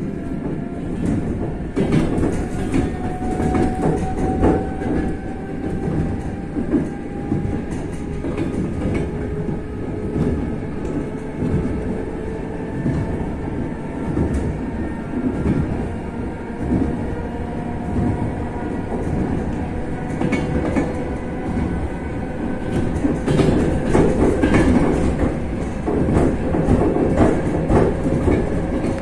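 Suburban passenger train under way, heard from inside the carriage: a steady rumble and rattle with wheel clicks over rail joints, and a faint motor whine that slowly rises in pitch as the train gathers speed.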